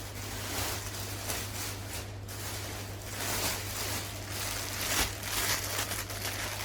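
Plastic grocery packaging rustling and crinkling as items are handled and taken out of a shopping bag, with a faint steady hum underneath.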